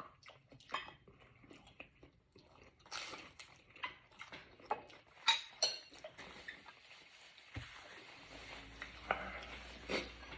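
A person eating soup, chewing quietly, with scattered short clicks and knocks of utensils against a bowl. A faint steady low hum begins about eight seconds in.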